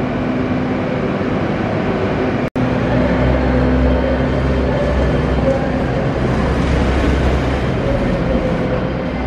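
Class 802 bi-mode multiple unit running through the station: a steady hum of engine and traction equipment over a low rumble. The sound breaks off for an instant about two and a half seconds in, and the low rumble is heavier after the break.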